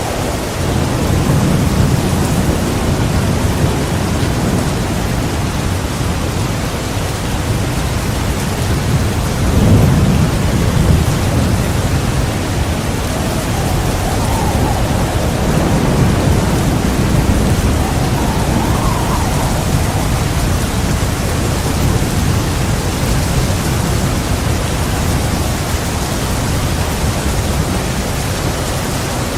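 Heavy rain falling steadily, with rolling thunder rumbling low underneath. The rumbles swell and fade several times, loudest about ten seconds in.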